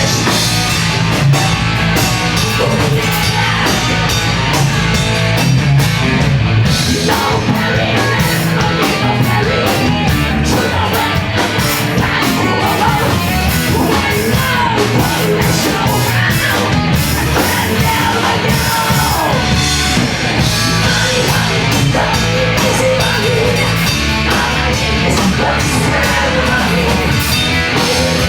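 A post-hardcore band playing loud live: distorted guitars, bass and drums at full volume, with vocals over the top.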